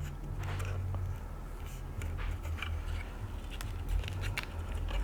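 Faint scattered clicks and rustles of a wire being folded and fitted into a small plastic tray by hand, over a low steady hum.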